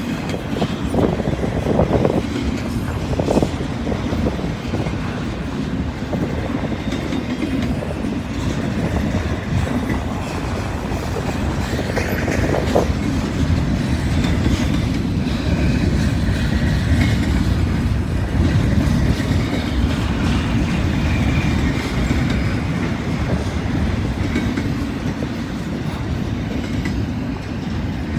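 Freight train rolling past at close range, its cars' wheels clattering over the rail joints in a steady rumble, with a few knocks in the first seconds and a faint high wheel squeal now and then in the middle.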